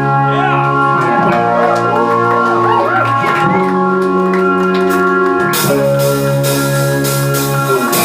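Live rock band music: a held organ-like chord with electric guitar and a wavering melodic line over it. Drums and cymbals come in about five and a half seconds in.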